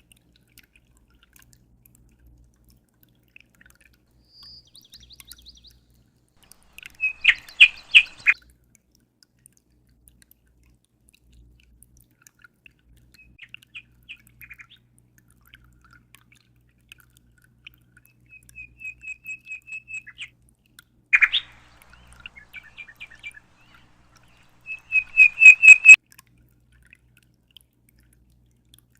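A songbird singing in short, separate phrases of rapid repeated chirps with quiet pauses between them, plus one sharp single call. The last phrase is the loudest.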